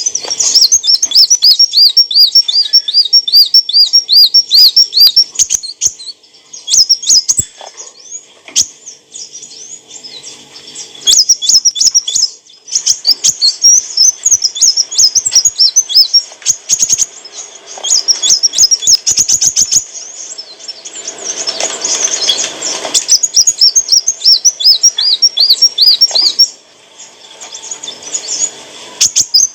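Kolibri wulung sunbird singing: fast, high, repeated chittering and trilled notes in long runs with short breaks. About three-quarters of the way through there is a brief rustling noise under the song.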